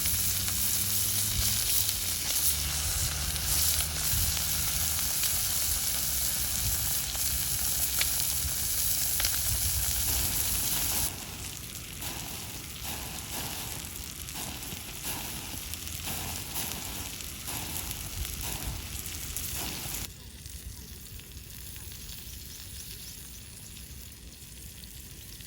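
Steak sizzling as it cooks over a wood fire, a steady frying hiss with small crackles. The level drops abruptly twice, about halfway through and again near the end.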